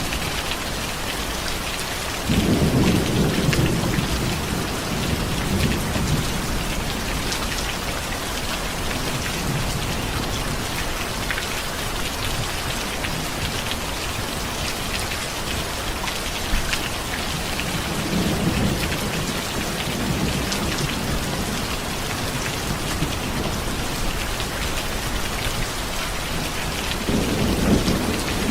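Steady heavy rain hissing, with low rolls of distant thunder rumbling about two seconds in, again in the second half, and near the end.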